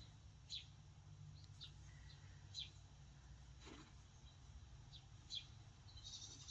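Near silence: low room hum with about half a dozen faint, very short high chirps scattered through it, bird-like.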